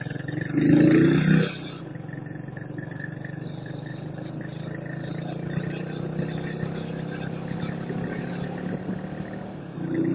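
Motorcycle engine running while riding, a steady hum. A brief louder engine surge comes about half a second in, and another starts near the end.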